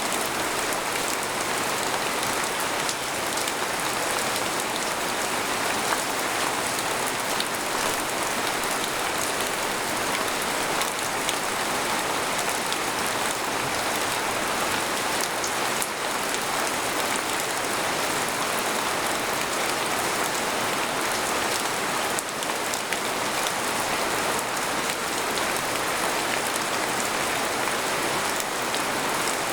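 Steady rain falling on a tent, heard from inside: a dense, even patter with individual drops ticking through it.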